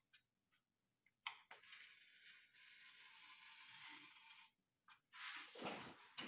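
A cutting blade drawn slowly through sheet material along a marked wing outline, giving faint scraping strokes: a long one about a second in and a shorter, louder one near the end.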